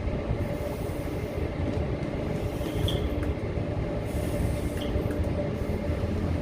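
Diesel truck engines idling, a steady low rumble with a constant hum over it, at a truck-stop fuel island while a tank is being filled.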